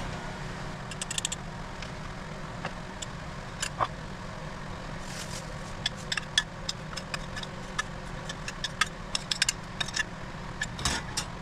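A utensil clinking and scraping against cookware in quick, sharp ticks as the reheated spaghetti and meatballs are dished up, most of them in the second half, over a steady low hum.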